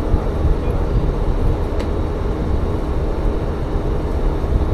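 Tsugaru Railway diesel railcar running along the line, heard aboard: a steady low running noise of the engine and wheels on the track, with a faint click a little under two seconds in.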